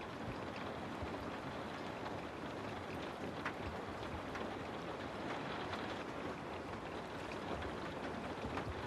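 Steady rain falling on a house: an even hiss with scattered individual drops ticking.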